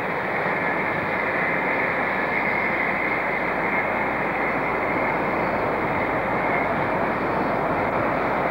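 A train running away from the platform along the track: a steady, even rumble and hiss.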